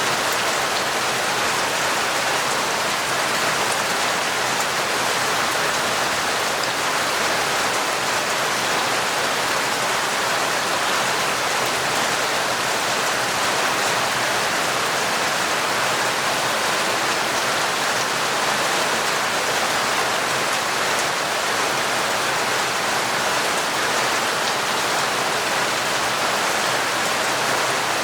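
Torrential rain falling steadily: a dense, even hiss of drops with no pauses.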